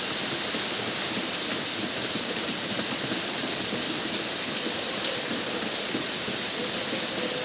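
Steady rain falling: an even wash of noise that holds without a break.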